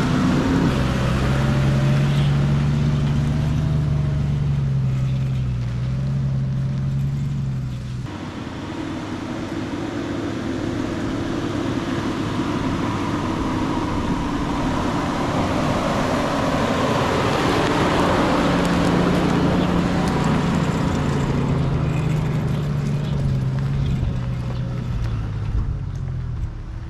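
Toyota LandCruiser Troop Carrier's engine running as the vehicle drives, a steady engine note over rumbling road noise. The sound changes abruptly about 8 seconds in, then the engine note drifts gently up and down.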